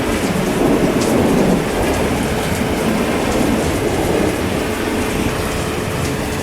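Heavy rain falling steadily, with a low rumble of thunder that eases off after the first couple of seconds.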